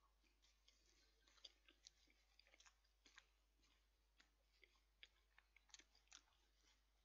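A person chewing a mouthful of burger in a bun: faint, irregular wet mouth clicks and smacks, several a second.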